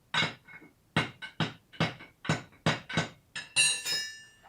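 A series of about ten sharp metal-on-metal hammer strikes, driving a part of the alternator mount back into place so a tight alternator will fit. The last strike, near the end, rings on with a clear metallic tone.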